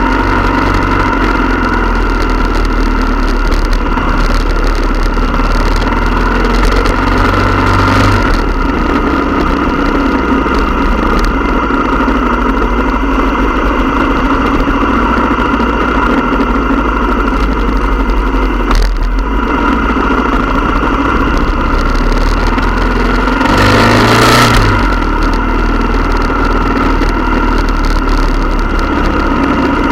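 Motorcycle engines running steadily during a group ride. Near the end a louder swell rises briefly in pitch as a bike revs.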